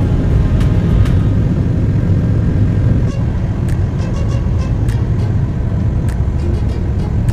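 Car driving at speed on a motorway: a steady low rumble of engine and tyre noise, with a few faint clicks over it.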